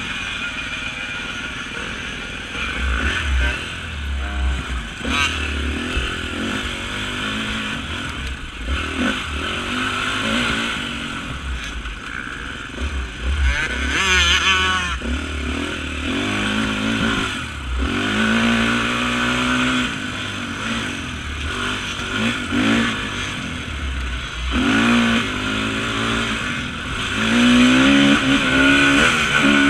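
Off-road racing motorcycle engine revving up and down again and again as it accelerates through the gears, getting louder near the end.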